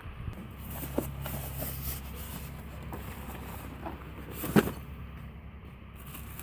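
A motor running with a steady low hum, with a few sharp knocks, the loudest about four and a half seconds in.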